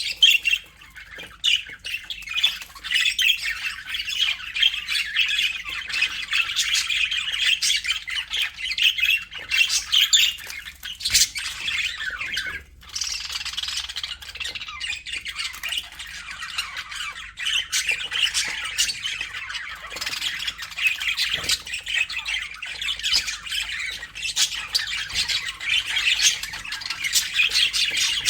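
A flock of budgerigars chattering and squawking continuously, many birds at once, with a brief lull about a second in.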